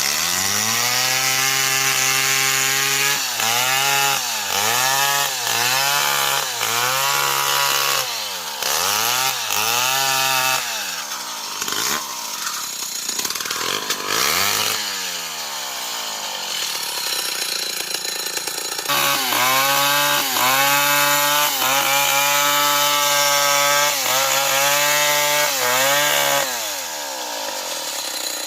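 Old Stihl 070 two-stroke chainsaw running at high revs and cutting wood, its pitch repeatedly dragged down and recovering as it loads up in the cut. Through the middle the steady engine note turns rougher and noisier, then full revs return and ease off near the end.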